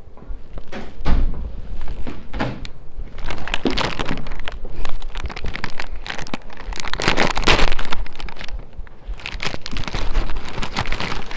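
Snack packet crinkling and crunching in loud, irregular bursts.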